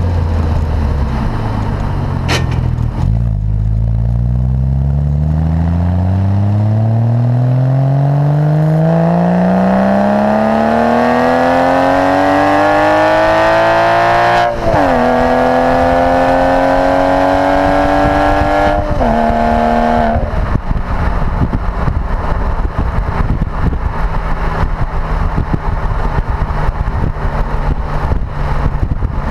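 Porsche Boxster engine through its performance sports exhaust, pulling hard with the pitch climbing for about ten seconds. It drops suddenly at an upshift, climbs again more slowly and shifts once more. After that the engine sound falls away into steady road and wind noise as the car eases off and cruises.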